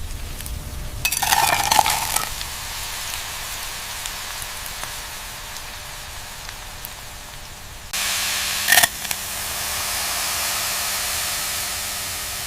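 Steady sizzling hiss of fries frying in hot oil, with a louder flurry about a second in. About eight seconds in it changes abruptly to a brighter, louder sizzle, with a short sharp burst just after.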